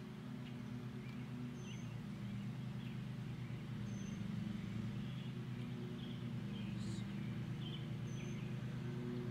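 Birds chirping: a short high note repeats about every two seconds, with other brief chirps in between, over a steady low hum.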